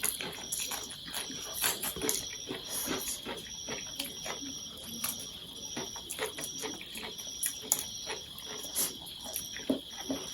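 Close-up eating sounds: chewing chow mein noodles, a string of irregular soft wet mouth clicks. A steady high-pitched tone with a faint regular pulsing runs underneath.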